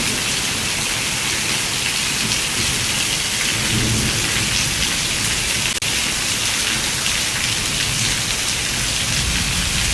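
Heavy rain pouring steadily in a thunderstorm, with a low rumble of thunder about four seconds in.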